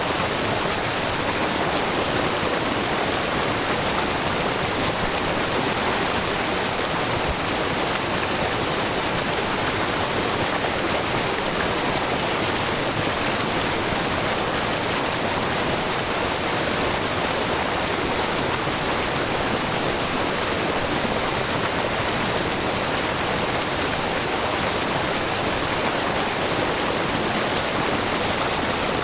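Shiraito Falls, a wide, low waterfall of spring water spilling down a rock face, rushing with a steady, even sound.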